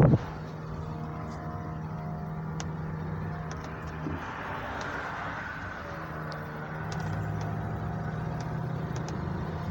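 Car driving slowly, heard from inside the cabin: a steady low engine hum with tyre and road noise, which swells for a few seconds in the middle.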